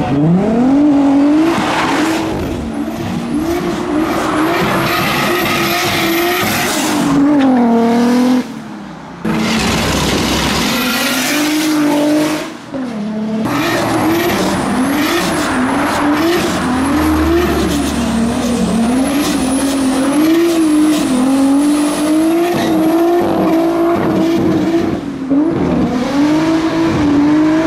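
Turbocharged 1JZ straight-six of a Toyota Chaser JZX100 with screamer pipes, revving hard while drifting: the revs climb at the start, then bounce rapidly up and down, with tyres squealing. The sound breaks off abruptly twice, at about eight and thirteen seconds, and picks up again.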